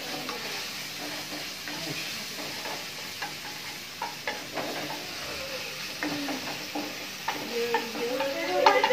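Food sizzling in a wok on a gas stove, stirred with a wooden spatula that scrapes and knocks against the pan in short clicks. A voice breaks in near the end.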